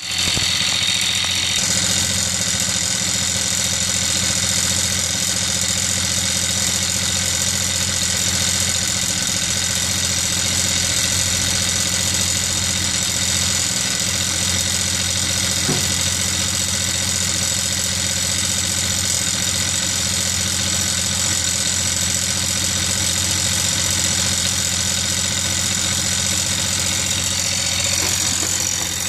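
Saxonette motorised bicycle's motor running steadily, with a constant hum and a high whine: the strange noises its owner is puzzling over. One short click about halfway through.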